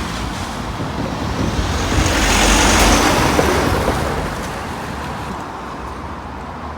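A van driving past over the level crossing: engine and tyre noise swell to a peak about two to three seconds in, then fade away.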